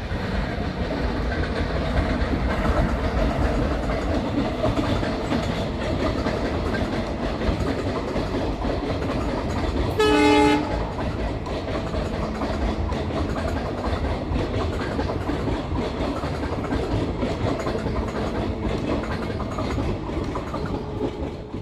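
Passenger train running across a railway bridge, a steady loud noise of wheels on the rails, with one short horn blast about ten seconds in.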